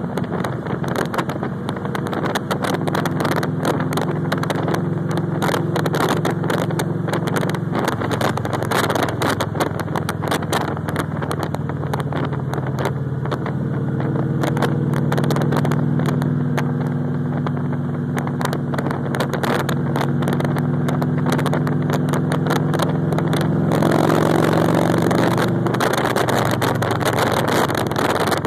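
Victory Cross Country motorcycle's V-twin engine running at road speed, its pitch rising and falling with the throttle, with wind buffeting the microphone. Near the end comes a louder rush of wind lasting about two seconds.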